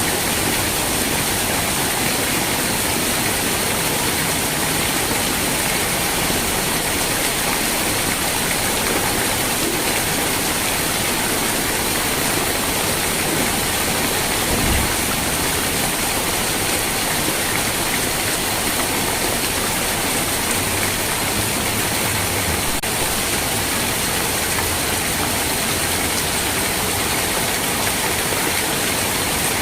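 Steady rain falling, an even hiss with no let-up; a faint low thump about halfway through.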